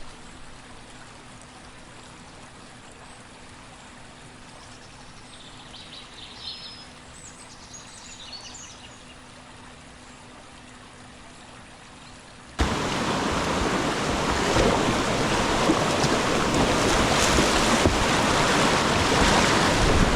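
A low steady water hiss with a few faint high chirps. About twelve seconds in it jumps suddenly to loud rushing whitewater from river rapids.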